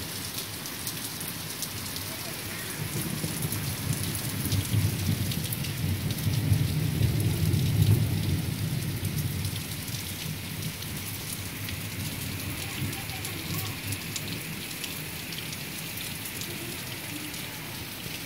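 Heavy rain falling steadily, a dense hiss of drops hitting roofs and plants. A low rumble swells through the middle and fades away.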